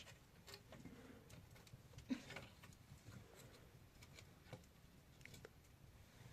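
Near silence, with faint scattered small clicks and taps.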